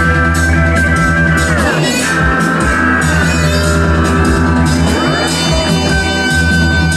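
Loud rock music from a band: electric guitar holding high notes and sliding in pitch, down about two seconds in and up again near five seconds, over bass and drums.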